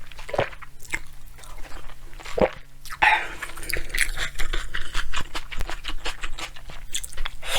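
A person chewing and crunching a mouthful of bibimbap, with irregular crackly clicks from the food.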